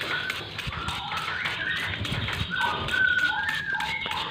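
Songbirds singing: short, clear whistled notes at several pitches, one after another, busiest in the second half.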